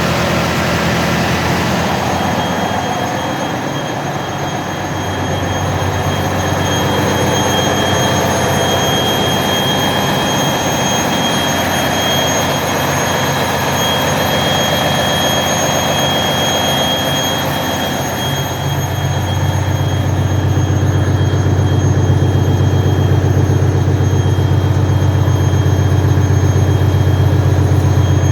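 Ferry engine-room machinery running loud and steady: a dense mechanical din with a steady high whine over it. About 18 seconds in, a deep low drone grows stronger.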